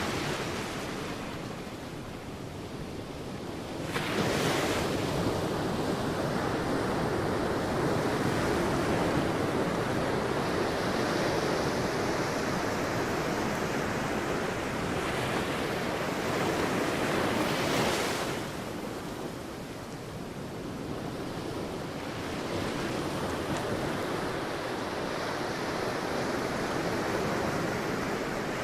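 Sea waves breaking on a beach: a steady wash of surf with two waves crashing in more loudly, about four seconds in and again near eighteen seconds, each followed by the long hiss of the water running back, with some wind on the microphone.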